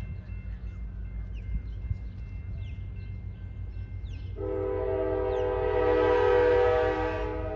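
Diesel locomotive horn sounding one long blast of about three seconds, beginning a little past halfway, over the steady low rumble of the train's engine.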